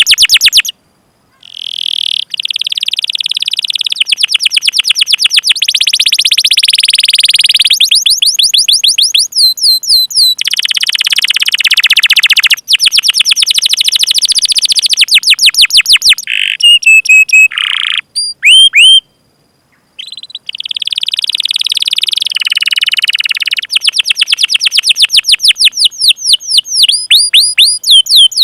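Domestic canary singing long rolling trills, each a fast run of repeated chirps, with two brief pauses: one about a second in and one about two-thirds of the way through. Just before the second pause come a few slower, separate whistled notes.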